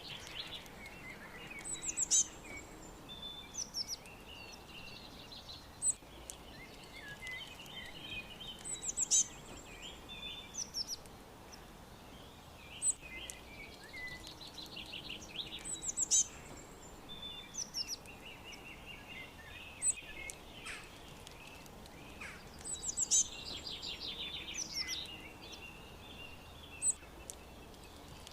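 Several songbirds singing at once, one of them repeating a short song of rapid high notes every three to four seconds, over a steady faint background hiss.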